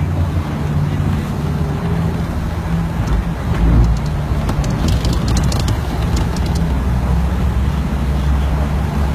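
Vehicle engine running with a steady low hum amid the continuous hiss of heavy rain, with a brief cluster of sharp clicks about five seconds in.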